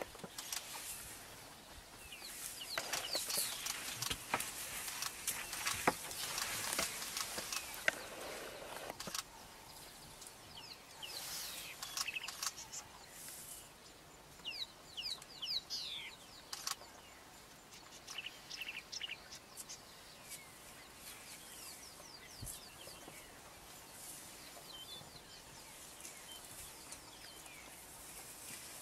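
Wild birds calling in the bush: many short chirps and whistled calls, busiest in the first half, over a soft rustling hiss with a few sharp clicks.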